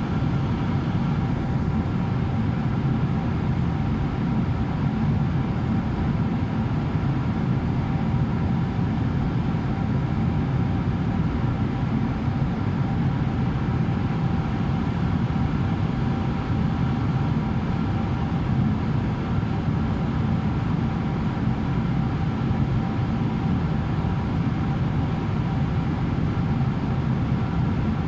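Steady cruise cabin noise inside a Boeing 777-300ER: a constant low drone of its GE90 turbofans and rushing airflow, with a few faint steady tones above it.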